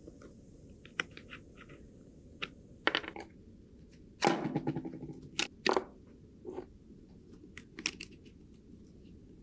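Small metal and plastic parts of a diecast model car being handled on a bench: scattered light clicks and taps, with a louder clattering knock about four seconds in that rings briefly, followed by two more sharp knocks.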